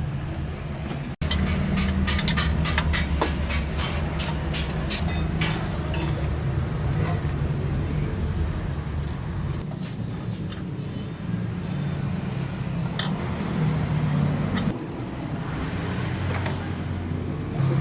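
Suzuki Ignis engine running at idle through a newly fitted 4-2-1 header and front pipe, a steady low exhaust rumble. A run of sharp clicks sounds over the first few seconds.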